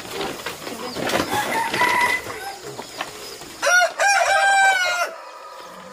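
Roosters crowing: a fainter, shorter crow about a second and a half in, then a loud, long crow from about three and a half seconds in, with chickens clucking around them.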